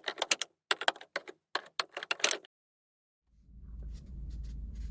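Quick runs of clicking keys, like typing on a keyboard, for about two and a half seconds. The sound then cuts off to silence, and a low steady hum comes in about three seconds in.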